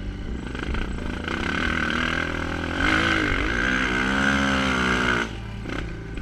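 Enduro motorcycle engine running under throttle. It dips and then rises in pitch as it revs, is loudest for a couple of seconds after the midpoint, and drops off suddenly near the end.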